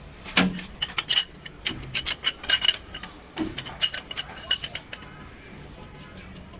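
Metal hand tools and engine parts clinking and knocking against each other in a quick irregular run for about five seconds, then stopping.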